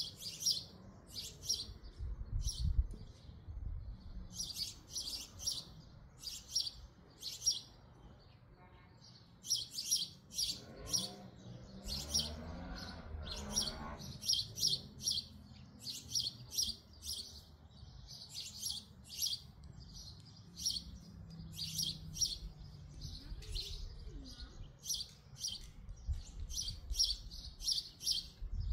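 Small songbird chirping repeatedly, short high chirps in quick clusters of two to four, over and over.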